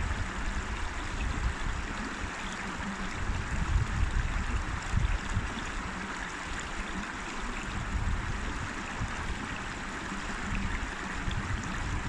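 River water flowing and rushing in a steady hiss, with an uneven low rumble surging underneath.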